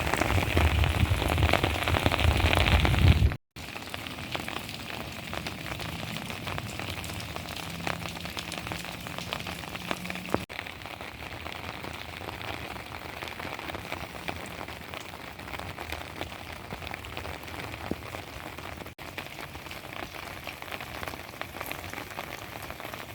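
Steady rain falling, heavier and louder for the first few seconds. After a sudden cut it continues lighter and quieter.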